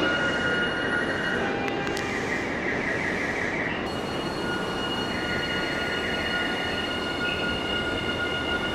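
A Nankai electric train running along the platform, with steady high-pitched tones over its running noise.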